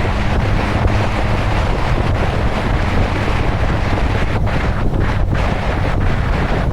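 Heavy wind buffeting the microphone while riding, a loud, steady rush, with a steady low hum underneath.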